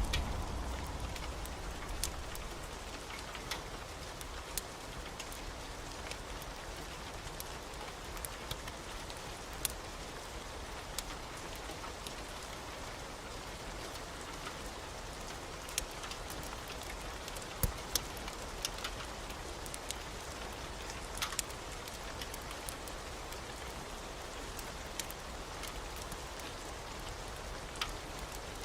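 Steady rain with scattered sharp ticks and pops throughout. A low rumble of thunder fades out in the first second.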